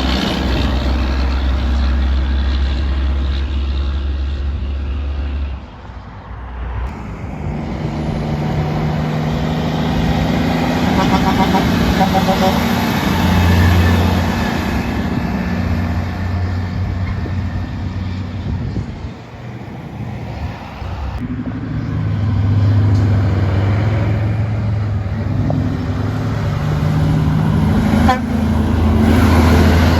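Road traffic: trucks and other vehicles passing one after another, engines running, with brief lulls about six and twenty seconds in.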